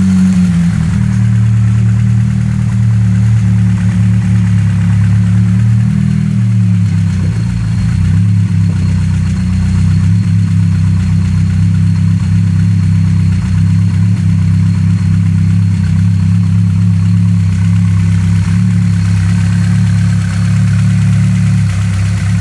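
Nissan Silvia's newly built turbocharged SR20 four-cylinder engine idling steadily on its first run after the rebuild, with no leaks found. The idle settles slightly lower about six seconds in, and a faint steady high whine runs over the engine note.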